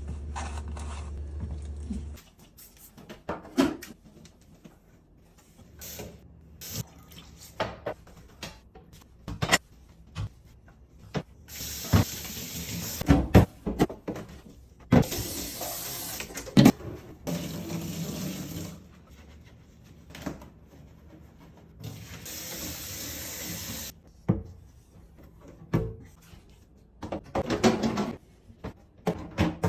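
Kitchen tap running on and off in several spells, with many knocks and clatter of things being handled and rinsed at the sink. A low hum stops about two seconds in.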